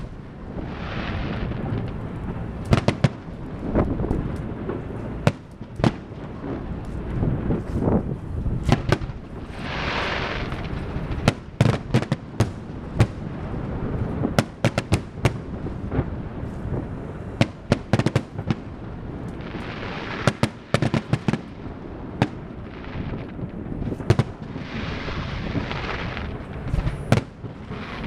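Fireworks going off: many sharp bangs at irregular intervals, some in quick clusters, with a hissing crackle lasting about a second breaking out every several seconds.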